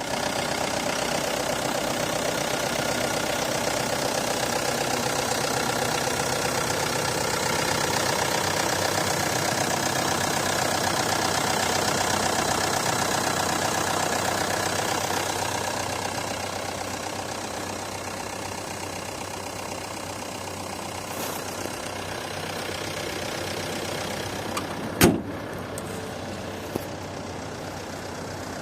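Mercedes-Benz V-Class 220 CDI four-cylinder diesel engine running steadily at idle. It is louder for the first half and gets quieter about 16 seconds in. A single sharp knock about 25 seconds in is the loudest sound.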